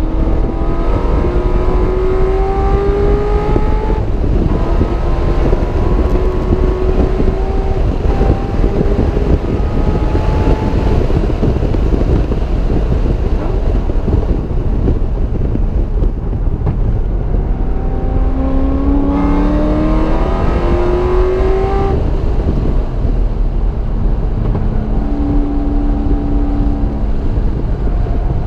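Car engine accelerating on track, its pitch climbing and then dropping at gear changes about four seconds in and again near twenty-two seconds. Steadier stretches lie in between, all over heavy, constant wind and road rumble.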